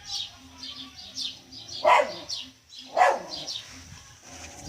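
A dog barking twice, about a second apart, over birds chirping repeatedly.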